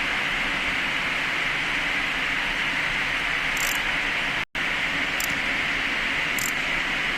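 Steady rushing hiss of a fan blowing air, with a few faint high ticks. It cuts out suddenly for a split second about four and a half seconds in, a break in the recording.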